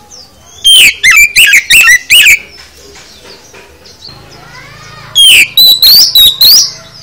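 Oriental magpie-robin (kacer) singing: two loud bursts of rapid, sweeping whistled notes, each lasting about a second and a half, the second starting about five seconds in.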